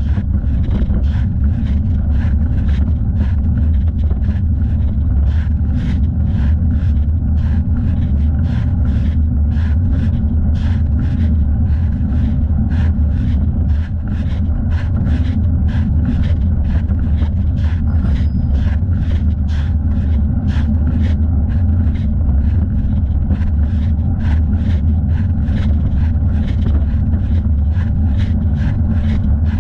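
Steady low wind and road rumble of a bicycle ride picked up by a camera on the rider's thigh, with a faint regular tick about twice a second.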